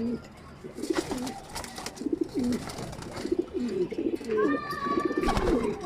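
Domestic pigeons cooing over and over in a loft, low rolling coos overlapping one another. Scattered sharp clicks and knocks come about a second in and near the end, and a brief higher held note sounds about four and a half seconds in.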